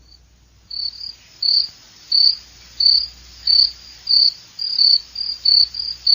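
A cricket chirping in a steady rhythm of short, high chirps, about one and a half a second, starting just under a second in.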